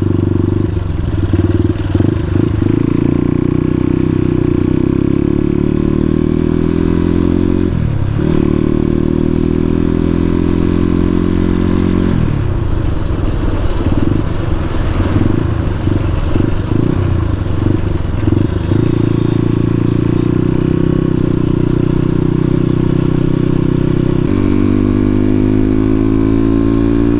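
Suzuki RM250 two-stroke dirt bike engine running under way, its pitch rising and falling with the throttle. It dips briefly about eight seconds in, runs choppy for several seconds in the middle, and climbs steadily near the end.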